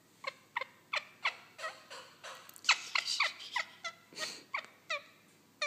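Indian ringneck parakeet singing: a fast run of short chirping notes, each sliding down in pitch, about three a second, loudest around the middle.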